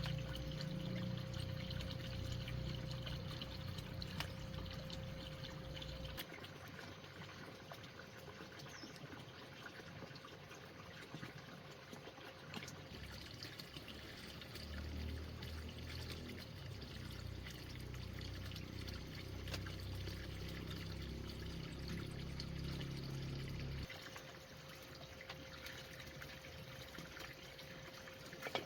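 Water pouring and trickling.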